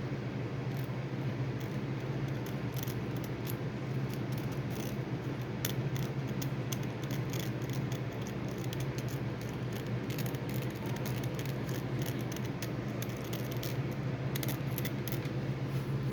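Light, scattered clicking and rattling of small water-heater parts being handled, over a steady low hum.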